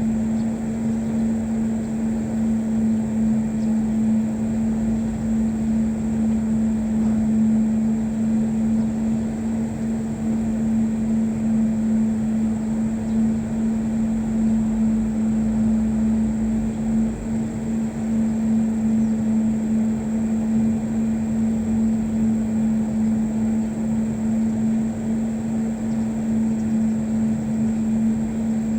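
A steady mechanical hum with one constant low tone over a noisy drone, unchanging throughout.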